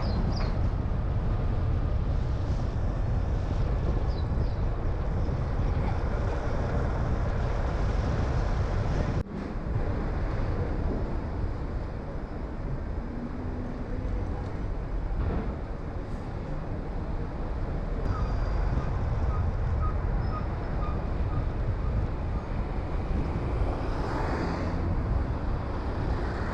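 Car driving at road speed: a steady rumble of road, tyre and engine noise, heaviest in the low end, with a brief drop about nine seconds in.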